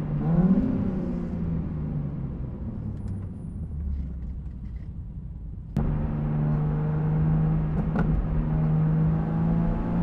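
BMW G80 M3 Competition's twin-turbo straight-six on its stock exhaust at low revs: the note rises and falls in the first second, then settles to a low rumble that fades. About six seconds in the engine note comes back abruptly, louder, and holds steady.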